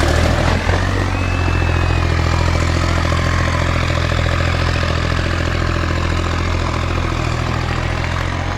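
Tractor engine running steadily as the tractor works through a mud pit, slowly getting a little quieter toward the end.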